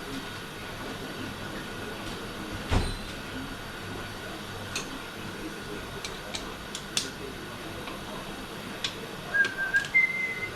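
Scattered light clicks and one louder knock about three seconds in, over a steady background hiss, as tools and parts are handled while a Ford AOD automatic transmission is taken apart. Near the end come two short whistle-like tones, the second higher than the first.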